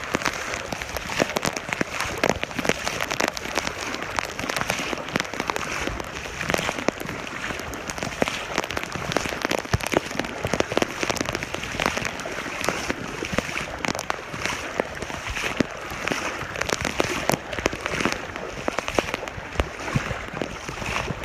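Hurricane rain falling steadily, with dense, irregular sharp taps of drops striking close to the microphone.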